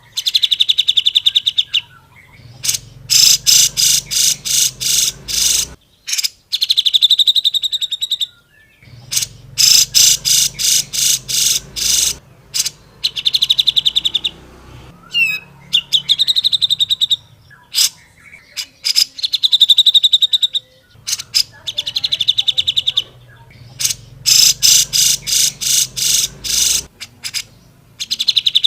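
Cucak jenggot (grey-cheeked bulbul) singing loudly in fast, rattling runs of rapidly repeated notes, each run lasting about one to two seconds, with short pauses and single sharp notes between runs.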